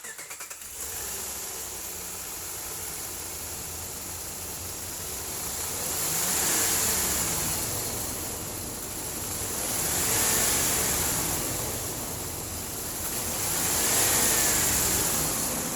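2008 Dodge Ram pickup engine running just after start-up, idling and then revved three times, each rev rising and falling back over a couple of seconds.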